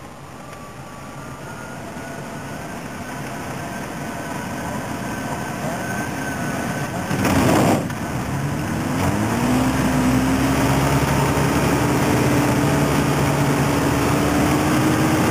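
Microlight aircraft engine, growing steadily louder as the aircraft comes nearer. About halfway through there is a brief loud rush of noise, then the engine note rises and settles into a steady, louder drone.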